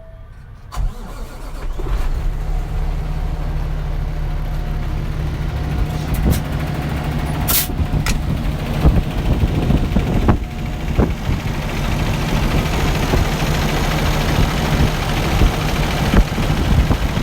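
2011 Peterbilt 365's diesel engine cranked and starting under a second in, then idling steadily with a low, even hum. There are a few sharp clicks and one brief high hiss about halfway through.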